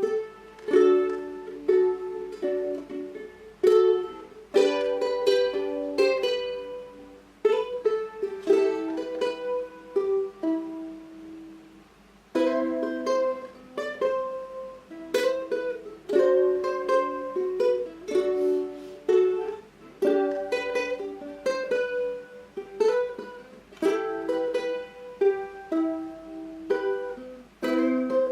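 Solo ukulele playing an instrumental melody, plucked notes mixed with chords, easing off briefly about twelve seconds in before the next phrase begins.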